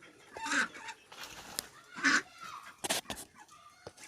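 Domestic fowl clucking: a few short calls, the loudest about half a second and two seconds in, with some sharp clicks in between.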